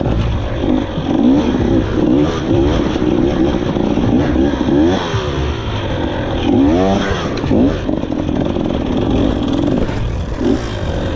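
Two-stroke enduro dirt bike engine revving, the pitch rising and falling in repeated blips of the throttle, with several quick sweeps up and down about halfway through.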